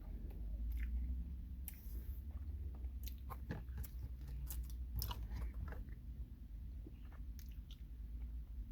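A person chewing a Warheads Ooze Chewz chewy candy close to the microphone: scattered mouth clicks and smacks, thickest from about three to six seconds in, over a low steady hum.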